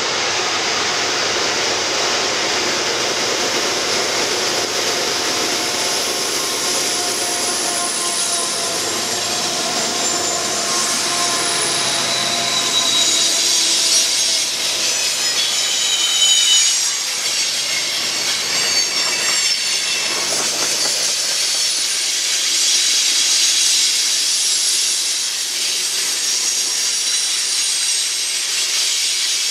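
Freight train passing close by: the lead GE diesel locomotives and then a long string of tank cars rolling over the rails. Steady wheel rumble and clatter, with high-pitched wheel squeal on the curved track coming and going.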